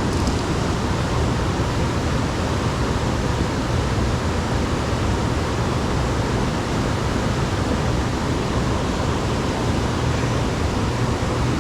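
A steady, even rushing noise with a strong low rumble, unbroken throughout.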